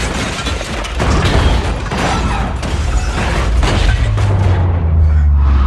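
Film action sound mix of a car chase: loud booms and crashing impacts over a dense rumble, with music underneath. A steady low drone takes over near the end.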